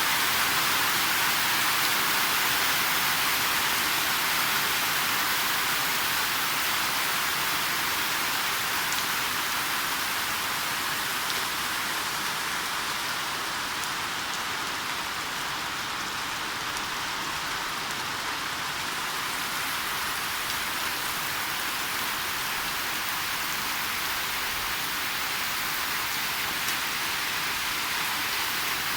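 Rain falling steadily, a continuous even hiss of drops on surfaces.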